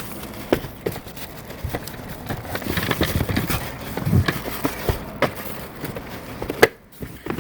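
Shoe boxes and wrapped shoes being handled: paper and cardboard rustling with scattered taps and knocks, and one sharper knock near the end.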